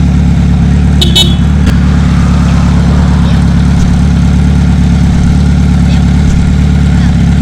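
Kawasaki Z900 inline-four engine running steadily at low revs, as when idling or creeping in traffic. A brief sharp click sounds about a second in.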